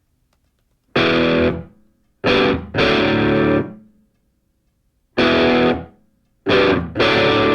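Distorted electric guitar playing chords as music: six chords struck in short groups, each left to ring and fade, with silent gaps between.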